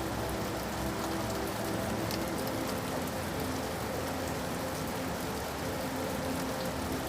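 Steady rain falling on a surface, an even hiss of many drops, with a faint low hum beneath it.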